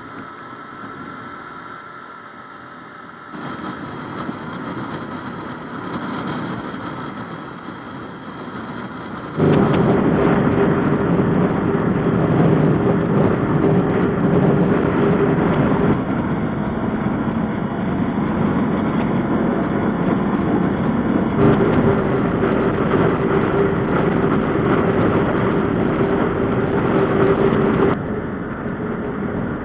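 Bajaj Boxer 150 motorcycle engine running on the move, in several cut-together clips. The first stretch is quieter. From about nine seconds in it turns loud and steady, with a constant hum.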